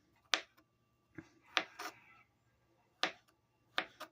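Kitchen knife cutting through grapes and knocking on a cutting board: about six sharp, irregular clicks.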